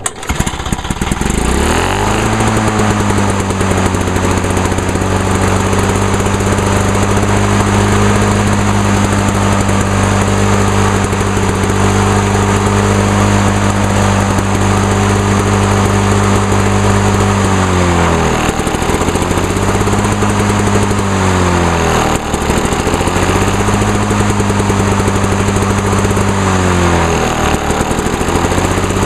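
Lawn-Boy 8461 commercial mower's two-stroke engine starting and settling into a steady high-speed run. Later it bogs down three times, the pitch sagging and then recovering, as Seafoam spray is shot into the running carburetor to clean out carbon.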